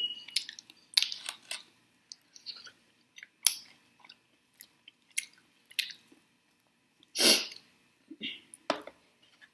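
Close-miked chewing of saucy chicken wings: scattered wet mouth clicks and smacks. There is one louder breathy rush about seven seconds in.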